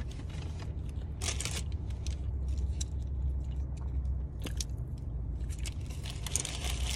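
Close-up chewing of a chicken McGriddle sandwich: wet mouth clicks and soft crunches scattered throughout, over a steady low hum.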